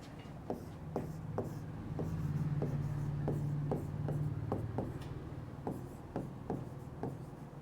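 Handwriting: a run of short, irregular taps and light scratching as something is written out by hand, with a low hum in the middle.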